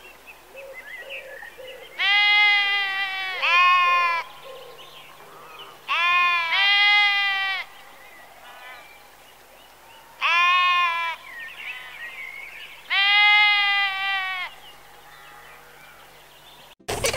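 Sheep bleating: loud, high-pitched bleats, some in quick pairs, coming about every four seconds, with faint bird chirps between them.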